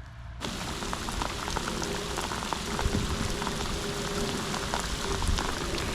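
Steady rain falling, a hiss of many small drop ticks that starts abruptly about half a second in.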